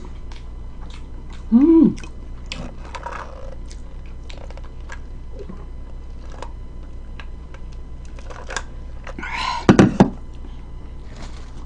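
Close-up chewing and small wet mouth clicks from someone eating. There is a short hummed "mm" about two seconds in and a louder short vocal sound near the end.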